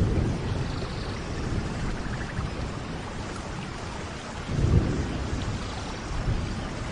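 Steady tropical rain falling, with a low rumble swelling up twice: once at the start and again about five seconds in.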